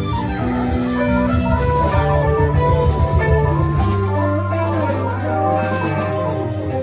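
A band playing music: a melody over a held bass line, with drums most busy in the first half.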